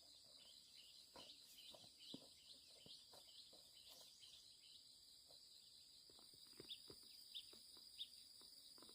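Faint outdoor ambience: a steady high-pitched drone of insects, with scattered short bird chirps and small ticks, several chirps clustered near the end.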